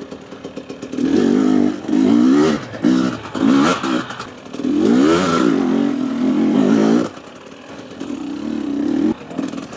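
Husqvarna TE250 enduro motorcycle engine revving in repeated bursts, its pitch rising and falling as the throttle is opened and closed over rough ground, then settling to a lower, steadier note near the end.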